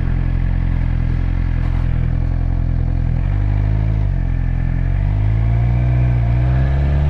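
Motorcycle engine of a 2019 Suzuki GSX-R600, an inline-four, running while being ridden. Its note holds steady, shifts a little after three seconds and dips near four seconds, then climbs steadily in pitch from about five seconds on as the revs rise.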